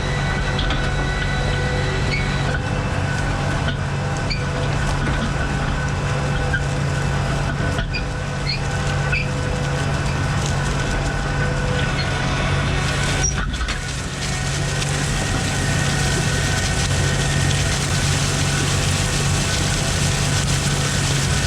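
Tractor engine running at a steady speed, with an even whine over its constant drone.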